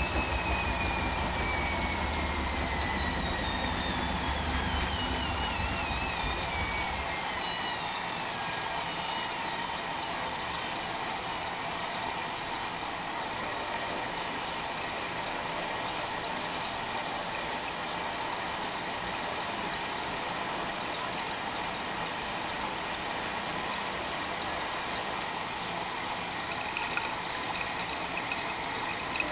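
Arçelik 5900E washing machine's drum spinning down at the end of the spin after the second rinse: the motor's whine falls steadily in pitch and the low rumble stops about seven seconds in, leaving a steady, quieter running noise.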